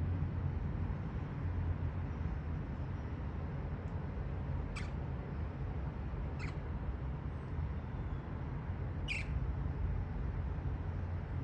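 Budgerigars giving three short, high chirps, spaced a couple of seconds apart, over a steady low rumble.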